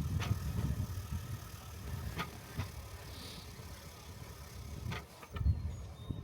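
Rail bike rolling along railroad track: a steady low rumble of steel wheels on the rails, with sharp clicks and knocks every second or two.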